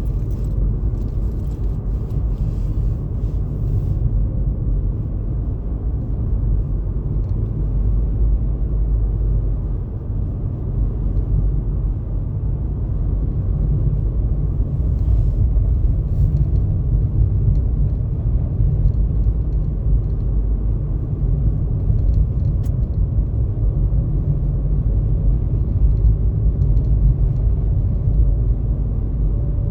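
Steady low rumble of a car driving, heard from inside the vehicle.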